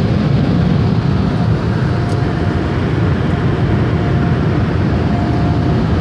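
Sonny's mini tunnel car wash running around the car, heard from inside the cabin: a loud, steady rush of wash equipment working on the car, with a faint whine coming and going.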